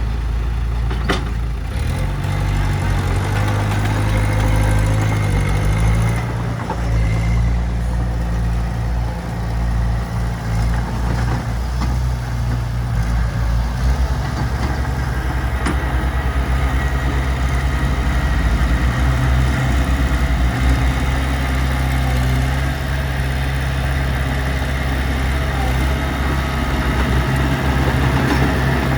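Heavy diesel engine running steadily at low revs; its note picks up about two seconds in and then holds.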